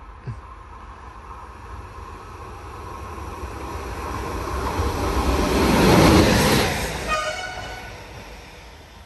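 A train passing through the station without stopping: the rumble of the passing train builds to its loudest about six seconds in, then falls away. As it fades, a brief tone with several pitches sounds from the train.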